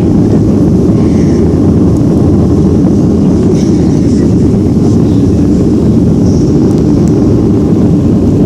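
Loud steady rumble of an airliner's engines and airflow heard from inside the passenger cabin.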